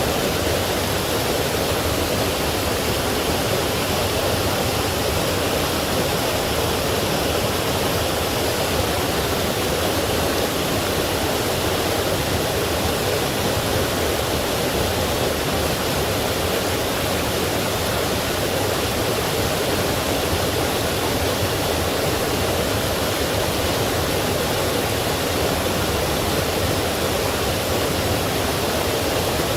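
Forest stream rushing over small falls: a steady, even rush of water with no change in level.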